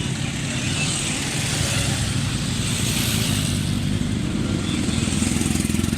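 Motorcycle engine running, a steady low rumble with a hiss that swells in the middle; it grows louder and more pulsing near the end.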